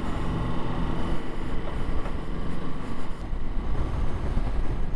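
Ducati motorcycle engine running at a steady cruising speed, with wind rumbling on the helmet microphone.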